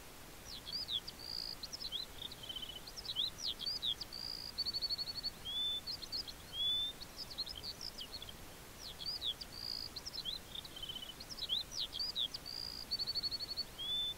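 A songbird singing: a steady run of quick high chirps, short trills and buzzy notes over a faint even hiss of outdoor ambience.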